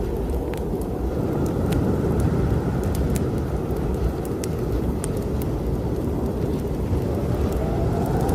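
Strong snowstorm wind blowing as a steady low rumble, mixed with the scattered crackles and pops of a fireplace fire.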